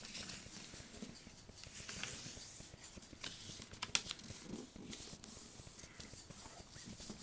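Sheet of paper being folded and creased by hand: rustling and crinkling with scattered short crackles, and one sharper tick about four seconds in.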